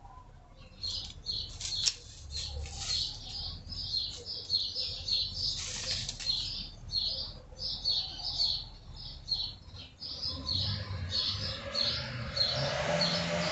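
Songbirds chirping in the garden trees: short, high chirps repeat about three times a second. Near the end a low rushing hum swells up beneath them.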